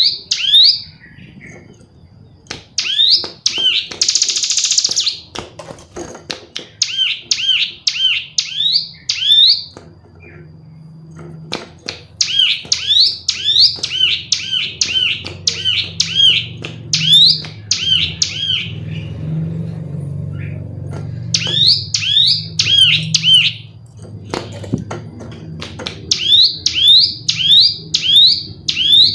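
Female bar-winged prinia (ciblek gunung) calling in bouts of rapid, sharp rising chirps, with short pauses between bouts.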